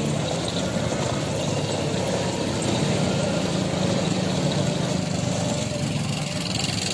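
A motor engine running steadily, with a low even hum and no changes in speed.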